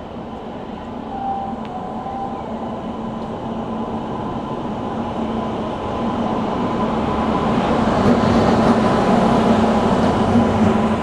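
WAG-9 electric locomotive hauling a freight train, growing louder as it draws near and loudest about eight to ten seconds in. Rumble of the train with a steady hum.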